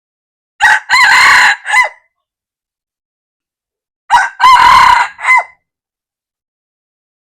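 Red junglefowl rooster crowing twice, about three and a half seconds apart. Each crow has a short first note, a longer middle note and a clipped final note.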